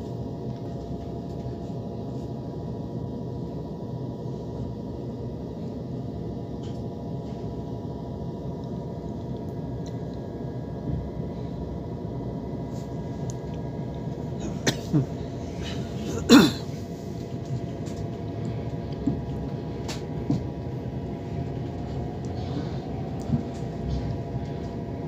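Inside an electric passenger train pulling away from a station: a steady running hum with several held motor tones, one of them rising slowly near the end as the train gathers speed. A few sharp metallic knocks come about two-thirds of the way in, the loudest of them near the middle of that stretch.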